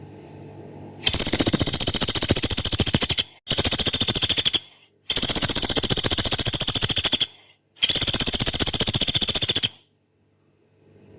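Pelatuk beras, a small pygmy woodpecker, giving four long, rough, rapid rattling trills in quick succession, each one a fast machine-gun-like string of harsh high notes lasting one to two seconds.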